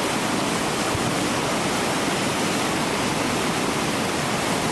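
Steady rush of whitewater at a river drop, the churning water of a hole in a rapid.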